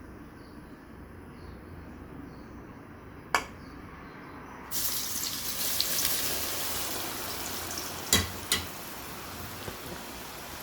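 Hot oil sizzling in a pan for chili garlic oil, the sizzle jumping much louder and brighter about five seconds in. A few sharp clinks of a utensil against the pan.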